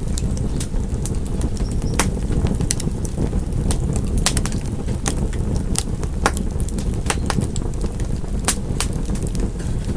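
Wood fire crackling and popping: sharp, irregular snaps a second or so apart over a steady low rumble of the burning fire.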